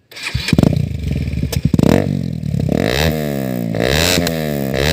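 Bajaj Pulsar NS 200 single-cylinder engine revved up and down several times through an aftermarket Akrapovic exhaust, with some clattering in the first couple of seconds.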